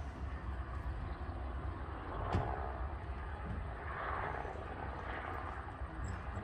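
Helicopter engine and rotor drone: a steady low rumble with a rapid flutter. A single sharp click comes about two and a half seconds in.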